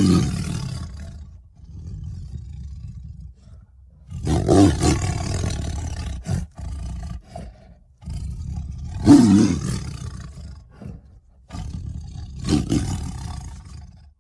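A series of four animal-like roars, each about two seconds long, with rough, low rumbling under each and short pauses between them.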